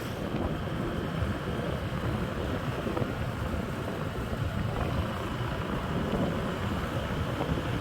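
Riding on a motorbike: a steady rush of wind across the microphone with the bike's engine and road noise beneath it.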